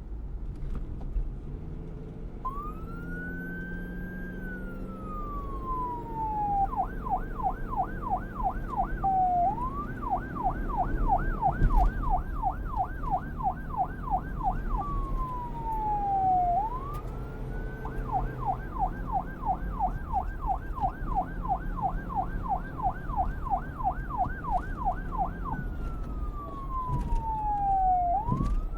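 Emergency vehicle siren alternating between a slow wail, rising and falling over a few seconds, and a fast yelp of about four sweeps a second, over a low traffic rumble.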